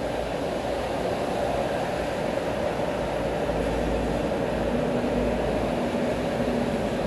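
Steady rain over a city street, mixed with a low, even hum of traffic on wet roads below.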